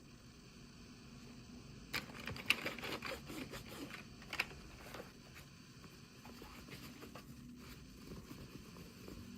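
Hands handling packaging and small toy pieces: a cluster of crinkles and small clicks from about two to five seconds in, then a few faint clicks.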